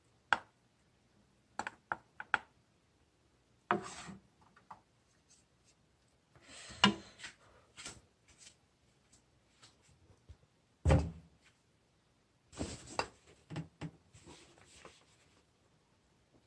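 Scattered knocks, sharp clicks and short rubbing or scraping sounds at irregular intervals, with a heavier thud about eleven seconds in.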